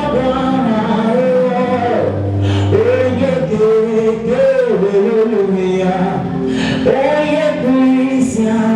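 Gospel worship singing: a lead voice singing a melody over musical accompaniment with sustained low notes.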